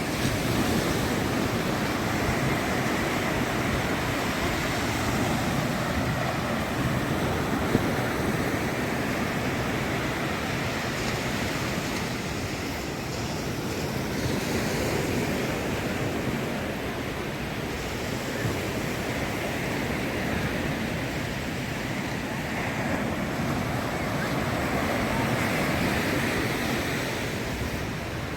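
Ocean surf breaking and washing on the beach: a steady rushing noise that swells and eases every several seconds.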